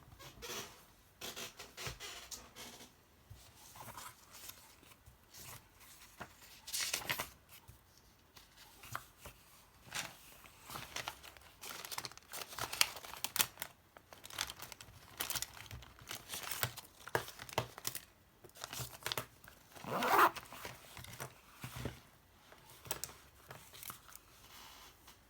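Paper or plastic packaging being handled, crinkling and tearing in short, irregular crackles, loudest about twenty seconds in.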